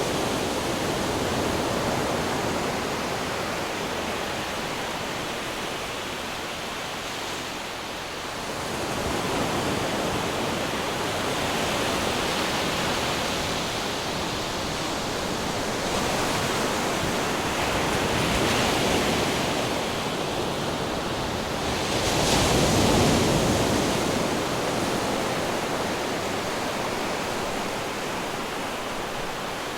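Ocean surf washing continuously against rocks, swelling and ebbing, with the biggest wave breaking about 23 seconds in.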